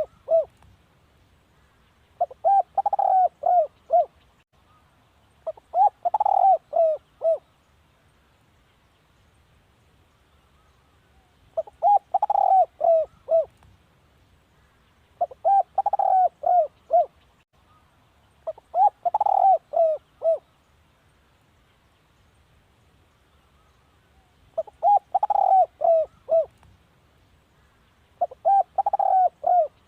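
Spotted dove cooing: phrases of four or five quick coos, each phrase under two seconds, repeated every two to four seconds, with one longer pause about a third of the way in.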